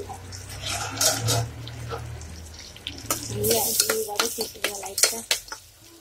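Ginger-garlic paste sizzling as it fries in hot oil in a pressure cooker, stirred with a ladle that scrapes and clicks against the pot. This is the stage of frying the paste before the mutton goes in.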